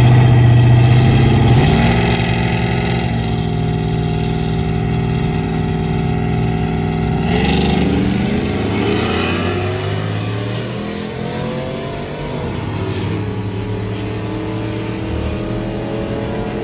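Truck engines running and revving. The pitch steps a couple of times in the first few seconds, then climbs sharply about seven seconds in, with more than one engine rising and falling after that.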